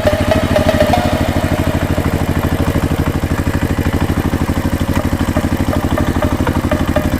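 Small engine of a DIY mini tractor running steadily at an even speed, a rapid regular putter of about a dozen beats a second.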